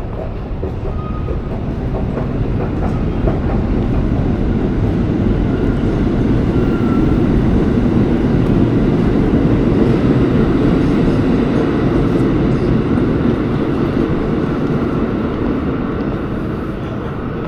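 New York City subway train running on the rails, a loud rumble that grows toward the middle and eases off near the end.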